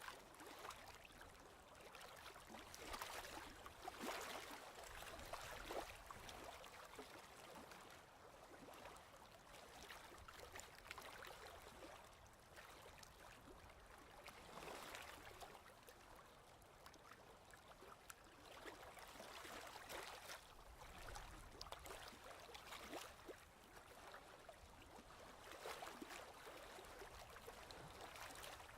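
Faint ocean waves: a soft wash of water noise that swells and ebbs every few seconds.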